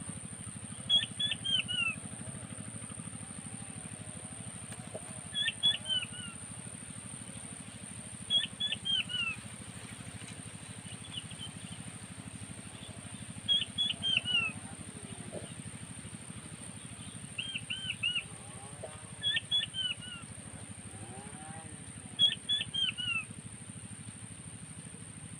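A king quail (puyuh batu) calling again and again: short phrases of three or four high, falling whistled notes, every two to four seconds. A steady, very high insect drone runs under it.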